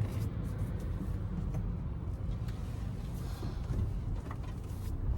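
Low, steady rumble of a car running, with a few faint clicks.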